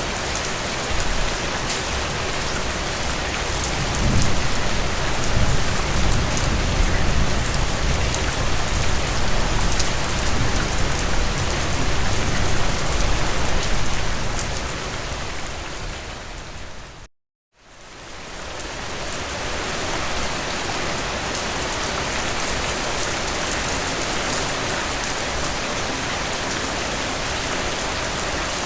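Heavy rain falling steadily, with single drops ticking on a surface. A low rumble swells about four seconds in and lasts some ten seconds. Past the middle the whole sound fades out to a moment of silence, then fades back in.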